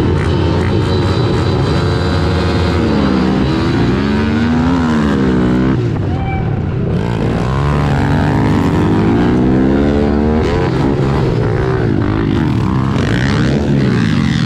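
Several small four-stroke pitbike engines racing, revving up and dropping back over and over as the bikes accelerate, shift and back off around the track.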